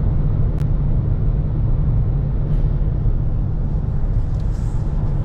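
Steady road and engine noise inside a moving car's cabin, a deep rumble with one faint click about half a second in.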